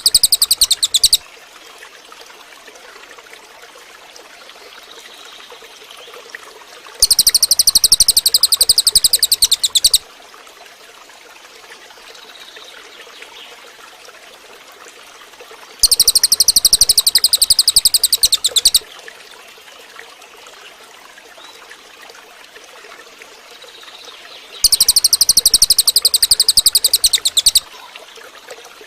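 Cililin bird singing in loud bursts of a very fast, high-pitched trill, each about three seconds long: one ends about a second in, then three more come roughly every nine seconds. Between the bursts a faint trickle of running water.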